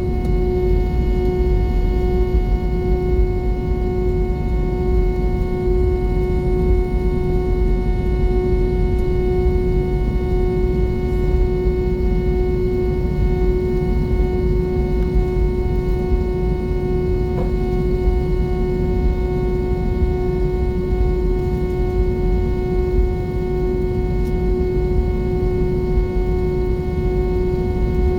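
Airbus A320 cabin noise from its jet engines: a steady, loud rumble with a constant droning hum tone running over it.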